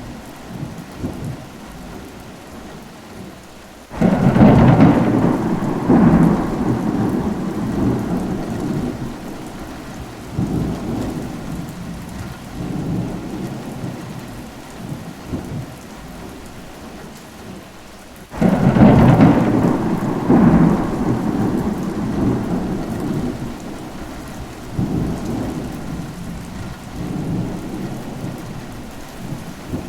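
Steady rain with two rolls of thunder: a sudden loud crack-and-rumble about four seconds in and another about eighteen seconds in, each rumbling on in a few surges and fading over roughly ten seconds.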